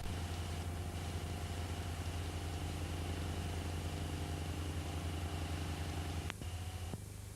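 Steady low mechanical hum, a droning tone with overtones, like a motor running. It changes abruptly twice near the end and drops in level.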